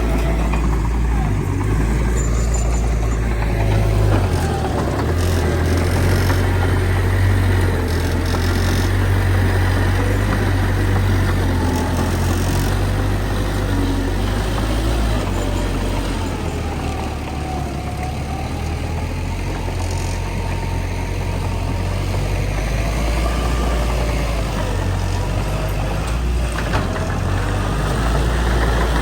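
Heavy diesel engines of earthmoving machinery, a bulldozer and dump trucks, running steadily with a deep low drone and a slight dip in level about two-thirds of the way through.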